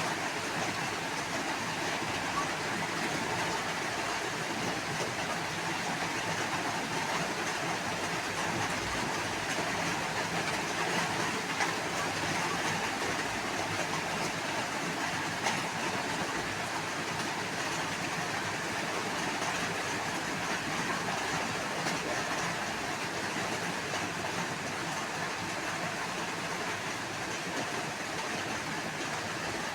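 A steady, unbroken rushing noise that holds an even level throughout.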